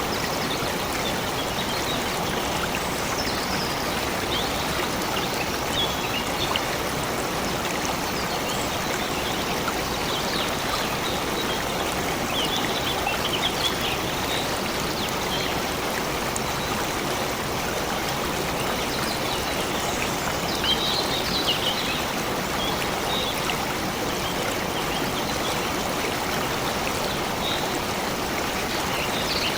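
Stream water running steadily, with short high bird chirps now and then.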